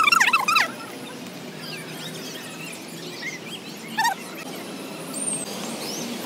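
A loud, high squealing call in the first half-second, then scattered bird chirps and calls over steady outdoor background noise.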